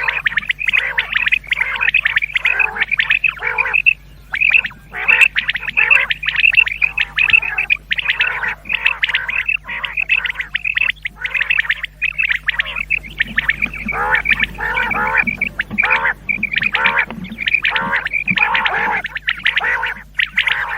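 Common quail calling continuously, many quick calls crowding over one another with only brief pauses.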